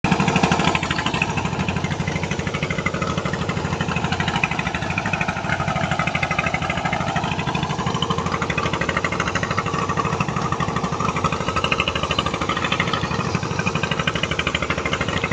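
Single-cylinder 'dompeng' diesel boat engines running steadily under way, with a fast, even knocking beat.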